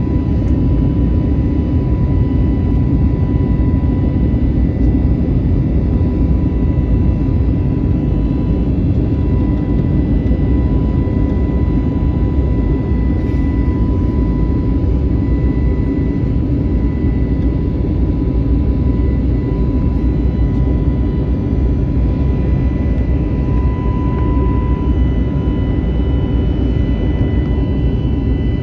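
Cabin noise inside an Airbus A321neoLR airliner in flight: a steady low roar of the engines and rushing air, with a steady high tone running through it.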